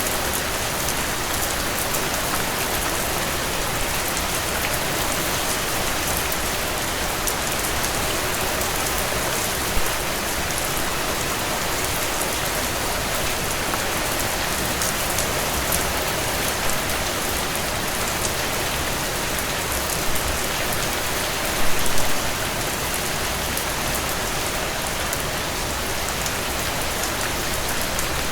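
Heavy rain on a tin roof: a steady, dense hiss with a constant patter of sharp drop ticks. A few louder single hits stand out, one about ten seconds in and a short cluster about three-quarters of the way through.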